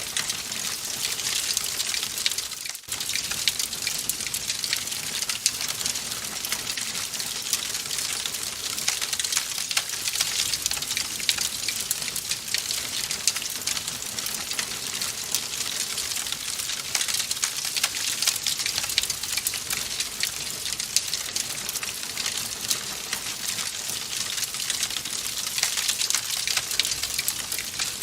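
Wood fire crackling in a fireplace: a steady hiss thick with small, rapid pops and snaps. There is a brief drop in level about three seconds in.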